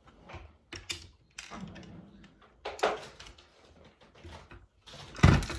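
Plastic Lego pieces clicking and rattling as the built model is handled, with a louder knock about five seconds in.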